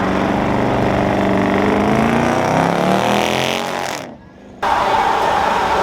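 Truck engine revving, its pitch rising and falling. It cuts out abruptly for about half a second a little after four seconds in, then comes back as a steady, rough running noise.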